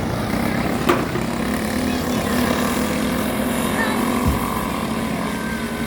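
Racing karts' small engines running steadily as the field laps the track, with a sharp click about a second in.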